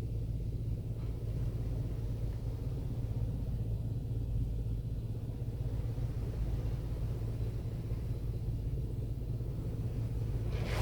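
Steady low mechanical rumble and hum in a WashWorld Razor Edge automatic car wash bay during the pre-soak stage, with no spray hiss.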